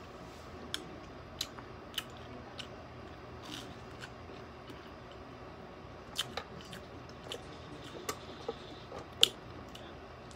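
Close-up chewing of crispy fried food, with irregular sharp crunches and mouth clicks, the loudest a little before the end.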